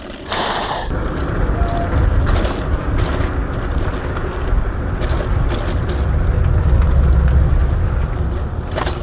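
Steady low rumble of a TRBK-M2 electric hyperscooter riding over a dirt trail, tyre and wind noise buffeting the helmet microphone. There is a brief hiss just after the start and scattered knocks, and the rumble swells about two-thirds of the way through.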